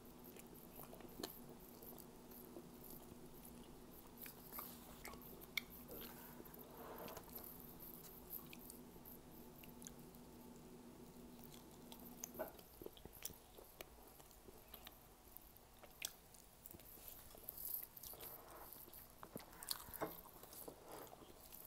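Faint chewing and small biting and mouth sounds of a person eating fried squid and rice by hand, with scattered soft clicks. A faint low hum in the background stops about halfway through.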